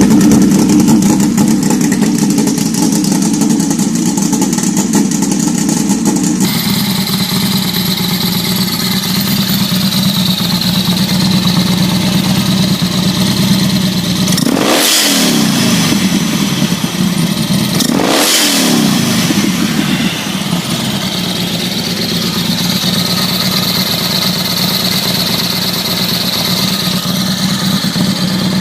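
Motorcycle engine running at a steady note. The sound changes abruptly about six seconds in, and two short sharp swoops in the engine note come about three seconds apart midway through.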